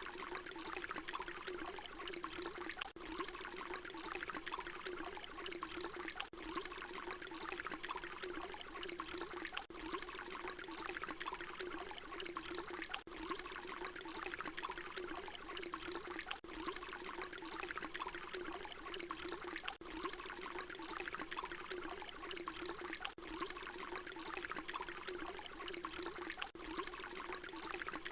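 Water pouring in a steady stream, with a brief dip in level about every three and a half seconds where the short recording loops.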